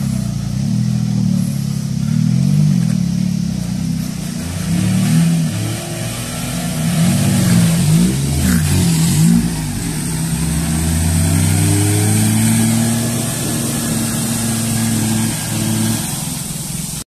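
Modified Maruti 800's engine revving hard and repeatedly, its pitch rising and falling as it drives through a shallow river, with water splashing off the wheels around the middle.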